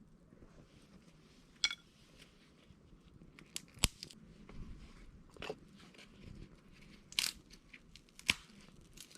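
Small wood fire burning in an empty can, crackling with scattered sharp pops and snaps at irregular intervals, about six of them.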